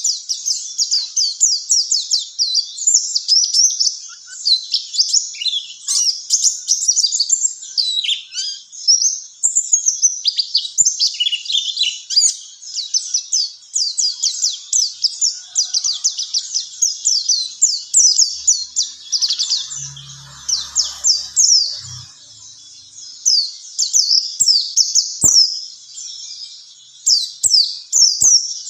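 White-eye (pleci) singing: a long, unbroken run of rapid, high-pitched chirps and trills, several notes a second. Recorded as training song for caged songbirds.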